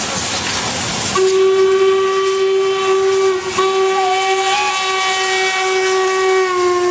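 Steam locomotive whistle blowing one steady pitch in two long blasts, split by a very brief break about halfway. Steam hisses before the whistle starts about a second in.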